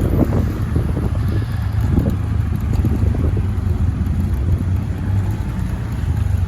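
Motorcycle running steadily at road speed, its engine and wind buffeting the phone's built-in microphone as a continuous low rumble.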